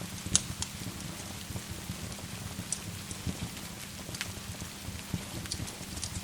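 Steady rain with a fireplace fire crackling over it: scattered sharp pops and snaps, the loudest about half a second in.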